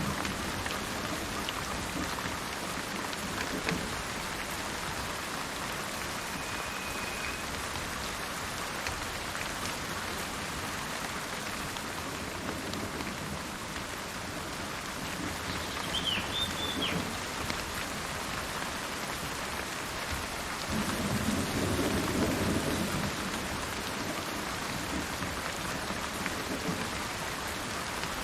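Steady rain falling, with low thunder rumbling in the distance twice, about halfway through and again longer about three-quarters through. A brief, faint bird call comes up over the rain.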